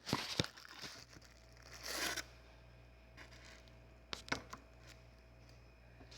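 Faint rustling and a few light clicks of things being handled, with a short swish about two seconds in and a small cluster of clicks near four seconds, over a steady low hum.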